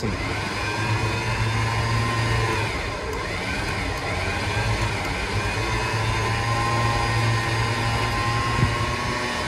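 An engine running steadily with a low hum, and a whine above it that wavers up and down in pitch about three seconds in.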